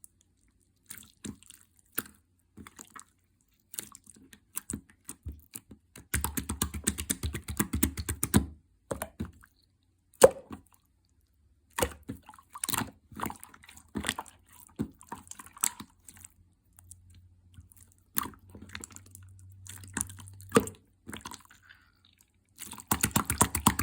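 Clear slime topped with stickers being pressed and poked by hand, giving scattered sticky clicks and small pops, with two longer runs of rapid crackling, about six seconds in and near the end.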